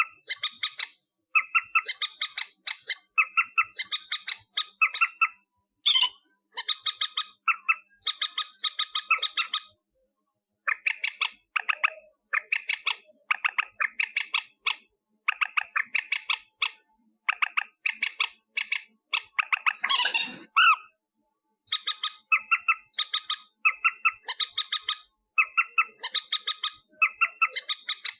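Recorded calls of a mandar (a rail), played back as a trapping lure. Rapid harsh clicking notes come in bursts of about a second, one after another with short gaps. About 20 seconds in there is one different, rougher sweeping call.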